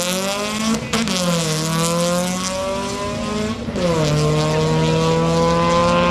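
A compact import drag car's engine pulls hard down the strip at full throttle. Its pitch climbs through each gear and drops sharply at two upshifts, about a second in and again near the middle.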